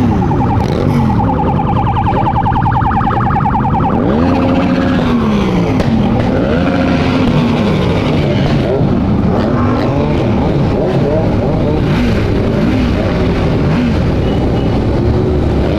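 Many motorcycles of a large convoy riding together, their engine notes rising and falling over and over as riders rev and roll off the throttle. A loud, steady high note runs through the first four seconds.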